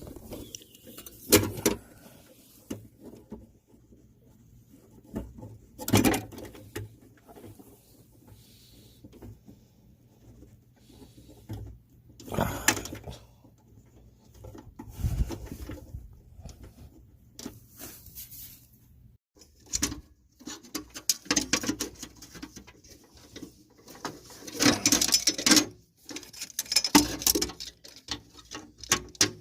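Scattered knocks and clicks with rustling in between: hands handling tools and parts.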